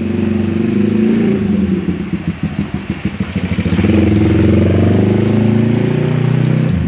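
A motor engine running close by, throbbing, then speeding up about halfway through and holding steady before it drops off near the end.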